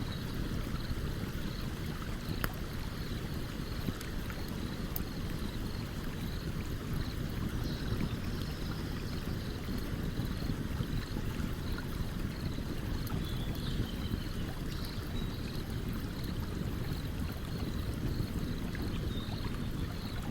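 Stream water flowing steadily, with a few faint, sharp crackles from a campfire burning beside it.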